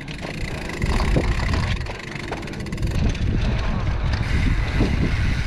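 Wind buffeting the camera microphone on a mountain bike rolling down a dirt trail, a steady low rumble with tyre noise and occasional clicks and rattles from the bike.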